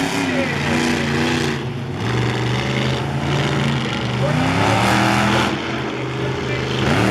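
A vehicle engine running steadily at a low, even pitch, with people's voices talking close by.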